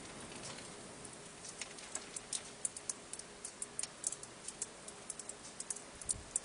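Faint, irregular light clicks or taps, several a second, starting about a second and a half in over a low hiss.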